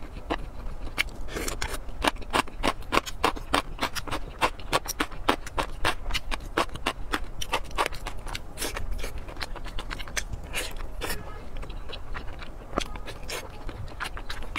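Close-miked eating of soft, fatty braised meat: a rapid run of wet mouth clicks and lip smacks from chewing, thinning out near the end.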